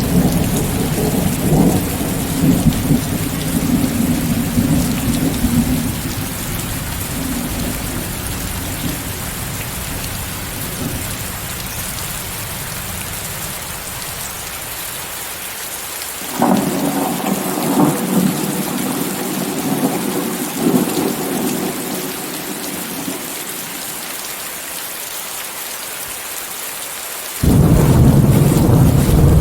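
Steady rain with thunder over a constant hiss of added white noise. A low rumble fades away over the first several seconds. A sudden peal of thunder breaks in about halfway through and rumbles for a few seconds. Another sudden loud peal comes near the end.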